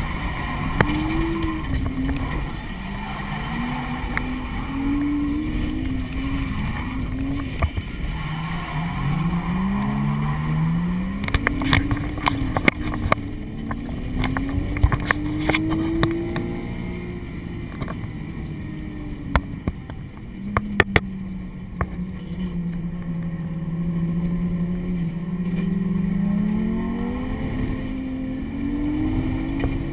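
A drift car's engine heard from inside the cabin, revving up and down repeatedly through a tandem drift, then held at a steadier pitch for several seconds before climbing again near the end. Sharp clicks and knocks from the car come through at times, in two clusters partway through.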